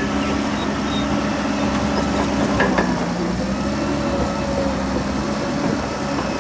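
Heavy diesel engine of earthmoving machinery running steadily, with one short knock a little before three seconds in.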